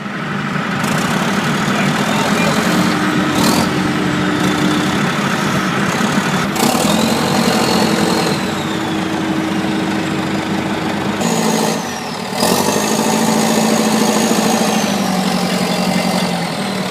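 JCB 3DX backhoe loader's diesel engine running steadily under load, with thin high whines that rise and fall over it. The sound drops briefly about eleven seconds in, then picks up again.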